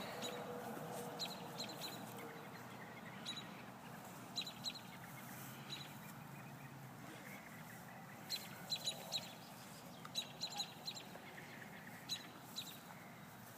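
Bird chirps: short, sharp high notes in quick little clusters, coming again and again over a faint steady background.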